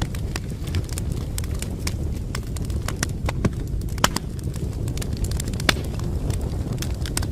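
Wood fire in a fireplace crackling: frequent sharp pops and snaps over a steady low rumble of the burning, with two louder pops about four seconds in and near six seconds.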